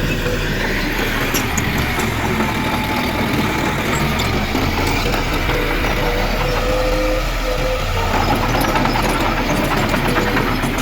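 Heavy earthmoving machinery with its diesel engine running steadily, a held whine and scattered light clanks over the engine rumble.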